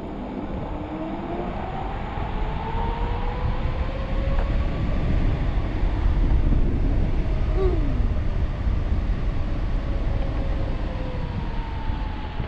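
1500-watt Leaf Bike hub motor whining as the e-bike picks up speed, the whine rising in pitch over the first several seconds, then holding and easing slightly, over a steady low rumble of wind and road.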